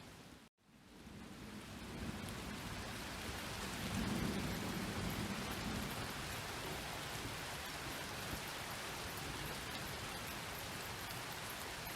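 Steady rain hiss from a thunderstorm, with a low rumble of distant thunder swelling about four seconds in. The sound cuts out for an instant about half a second in and fades back up, like a loop splice.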